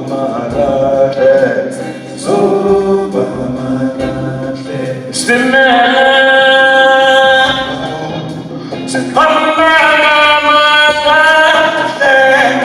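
Voices singing long held notes in harmony, rising and falling, in a live performance of a South African song.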